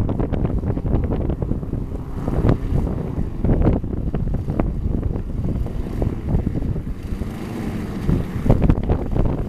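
Strong, gusty wind buffeting the microphone: a continuous low rumble broken by irregular sharp buffets.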